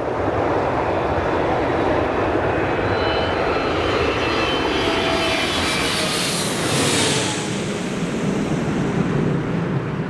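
Boeing 777-200ER's twin GE90-94B turbofan engines as the airliner passes close while coming in to land: steady jet noise with faint whining tones, the high hiss swelling about six to seven seconds in and then easing.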